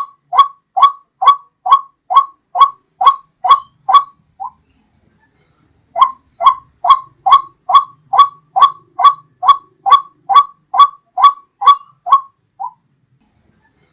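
White-breasted waterhen (ruak-ruak) calling: a loud, repeated two-syllable note at about two a second. The calls come in two long series, each ending with a fainter note and followed by a pause of about a second and a half.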